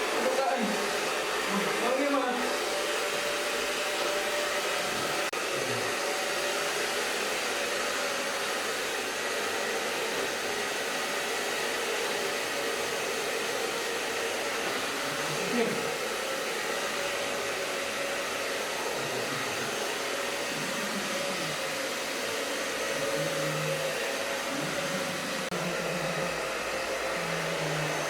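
Handheld hair dryer running steadily, a constant blowing rush with a steady hum of the motor.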